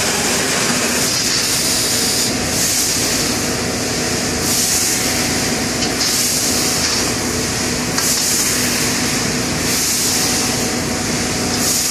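Bystronic CNC laser cutting machine running: a loud gas hiss that swells and drops every second or two over a steady machine hum.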